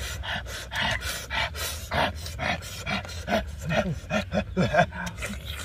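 Close-up eating sounds of grilled fish being chewed: wet lip smacks and mouth clicks, with short low hums and breaths between bites.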